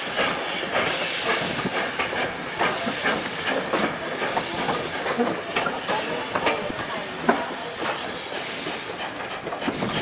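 Steam locomotive and train moving, with a steady hiss of steam and many irregular clicks and clanks from the wheels and rolling stock.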